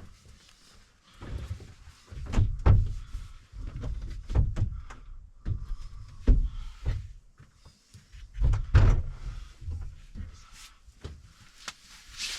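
Irregular knocks and thuds, with several sharper clacks, as things are handled and moved about inside a small truck camper.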